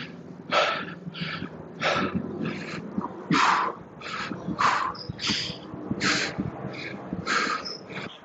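Heavy, rapid breathing of a man exercising, about a dozen short, hissing breaths through the mouth under the strain of a set of single-leg Romanian deadlifts with dumbbell rows.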